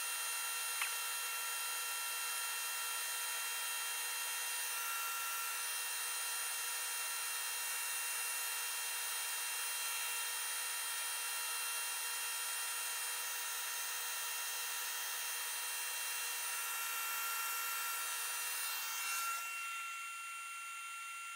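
Shop vac running steadily with a steady whine, while a cordless drill spins the Linteater brush scraping through the dryer vent duct; near the end the sound drops off as part of it is switched off.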